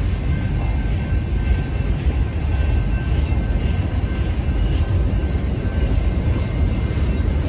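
Freight train cars rolling past: a steady low rumble of steel wheels on the rails, with faint steady high tones over it.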